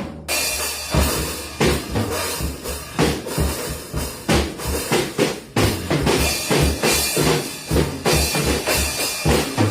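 Drum kit being played: a steady beat of bass drum and snare hits under ringing cymbals.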